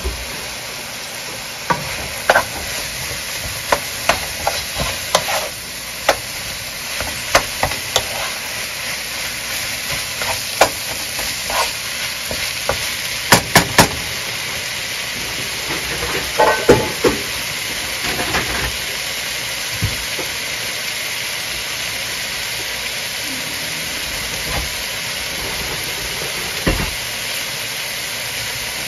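Spicy fried rice sizzling steadily in a wok, with a spatula now and then scraping and knocking against the pan as it is stirred, busiest about halfway through.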